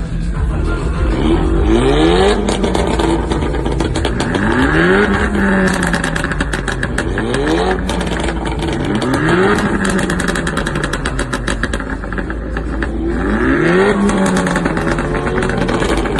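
An engine is revved sharply about five times, and the pitch falls back after each blip. As the revs drop, the exhaust lets out rapid crackling pops and bangs on the overrun.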